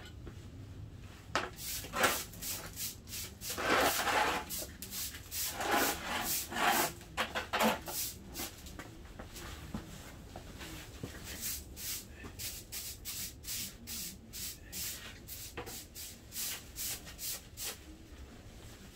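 Rubbing and scraping on wood in a series of short strokes, heavier in two clusters a few seconds in, then settling into a regular run of about two strokes a second.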